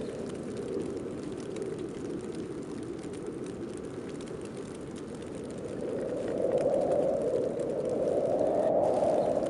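Snowstorm wind blowing steadily, swelling into a louder gust about six seconds in.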